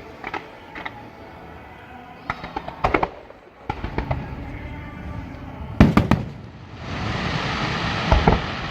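Fireworks display: a run of sharp bangs from shells bursting, the loudest a double bang about six seconds in. About seven seconds in, a dense, steady crackle sets in, with two more bangs near the end.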